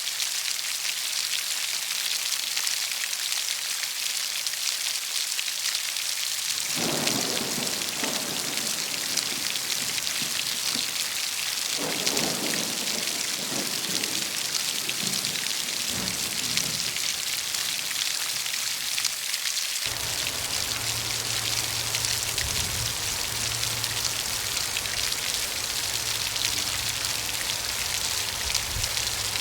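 Steady rain falling on leaves, a dense even hiss. About a quarter of the way in, low thunder starts rumbling under it, and a steady deep rumble holds through the last third.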